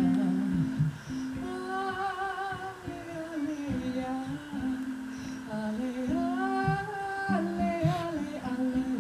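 Live music: a voice singing long, wavering held notes that slide between pitches, over plucked guitar accompaniment with steady low notes.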